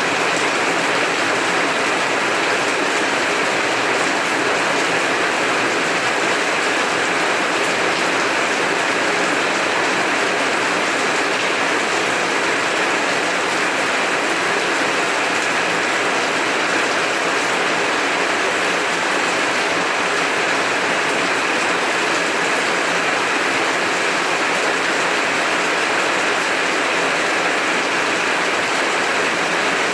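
Heavy rain falling steadily, an even unbroken hiss of drops with no thunder heard.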